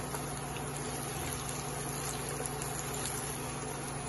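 Sliced onions and whole spices frying in oil in a pot: a steady sizzle with faint small crackles, over a steady low hum.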